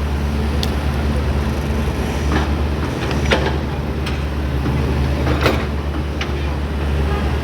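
Heavy diesel engine of an excavator running steadily, with several sharp knocks scattered through it, about a second apart.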